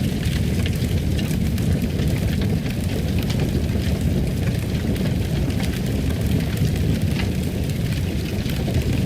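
Wood fire crackling in a fireplace: a steady low rush of flame with many scattered sharp crackles and pops.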